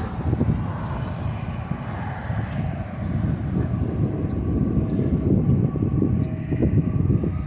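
Freight train rolling past, a steady rumble of rail cars on the track.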